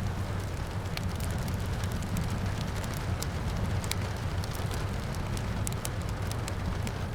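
Wood fire crackling, with many irregular sharp pops over a steady low rumble, mixed with the even hiss of rain.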